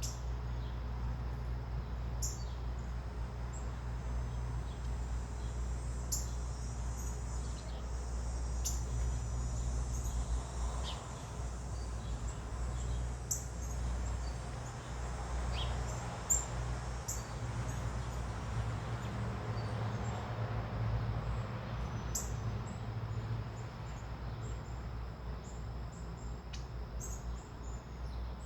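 Small birds chirping at a feeder: scattered short, high chips at irregular intervals, over a steady low rumble.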